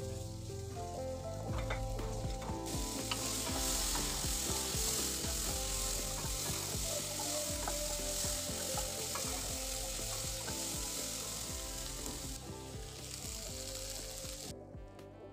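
Onion, tomato, garlic and chilli pieces sizzling in hot oil in a non-stick kadai, with a wooden spatula scraping and clicking against the pan as they are stirred. The sizzle grows louder about three seconds in and drops away just before the end.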